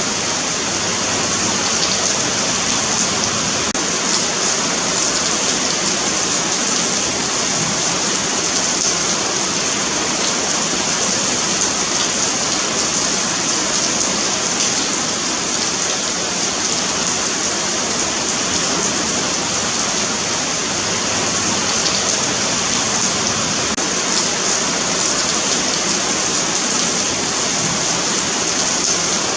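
Steady rain falling on a paved sidewalk: a continuous, even hiss of drops on pavement with faint pattering ticks.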